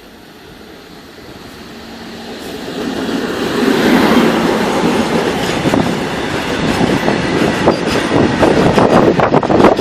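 Freight train of loaded tank wagons drawing near and rolling past close by: a rumble that builds over the first four seconds into a loud, steady wash of noise, then dense rapid clatter of wheels over the rail joints.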